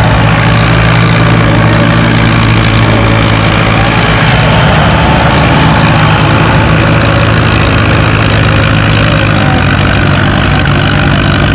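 Allis-Chalmers WD tractor's four-cylinder engine running steadily under load as it pulls a weight-transfer sled down the track.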